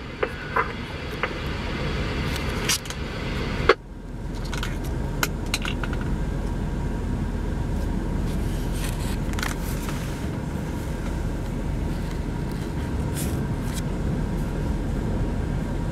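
Steady low rumble of storm wind on the microphone, with scattered clicks and a sharp knock about four seconds in, after which the rumble is louder.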